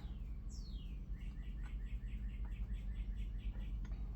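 A bird singing: a high whistle sliding downward, then a quick run of short repeated chirps, about four a second, over a low steady hum.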